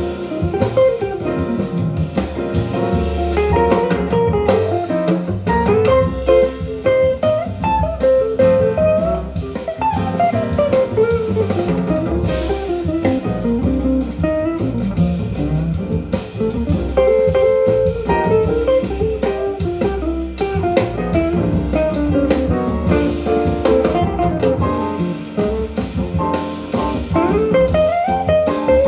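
Recorded jazz with a guitar playing melodic lines over bass and drum kit, played back through hi-fi loudspeakers and picked up in the listening room.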